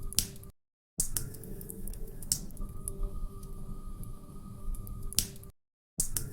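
Log fire crackling, with sharp pops and snaps over a low rumble. The sound fades to silence briefly about half a second in and again near the end, where the short recording loops and repeats.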